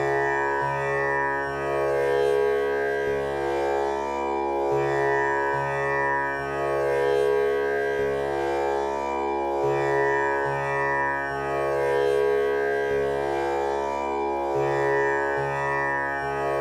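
Tanpura drone tuned to C# for a male voice, its strings plucked in a steady repeating cycle of about five seconds, each note ringing on with a buzzing shimmer of overtones.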